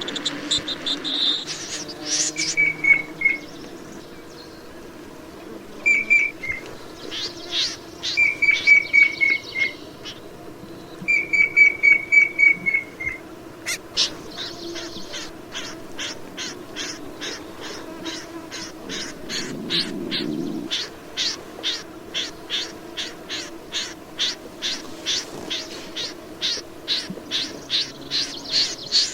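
Calls of the bird known in Vietnamese as rẽ run. Short strings of quick clipped notes come first. From about halfway on there is a long even series of sharp notes, about three a second.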